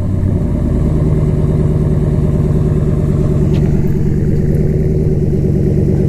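2015 Ram 1500's 5.7L Hemi V8 idling steadily through a Carven Competitor Series cat-back exhaust, just after start-up; the pitch of the idle shifts slightly about a second in, then holds even.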